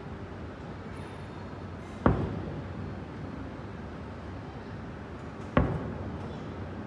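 Two fireworks shells bursting, sharp booms about three and a half seconds apart, each trailing off in a short rumble over a steady background hiss.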